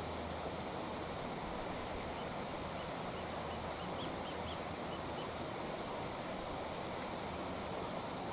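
Creek water flowing steadily over rocks, an even rushing sound. A few faint high chirps come through around the middle, and a short sharp tick sounds near the end.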